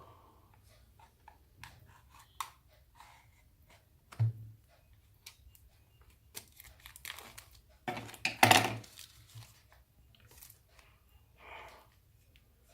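Packaging of a DJI Osmo Pocket being opened by hand: scattered clicks and rustles, a thump about four seconds in, and a louder tearing rustle around eight seconds in.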